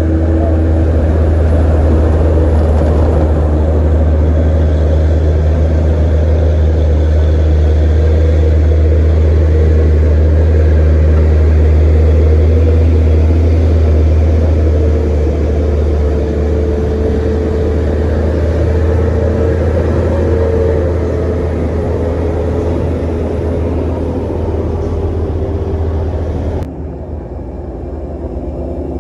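Heavy truck's diesel engine running hard under load, a loud steady deep rumble with a higher whine over it; the sound changes abruptly near the end.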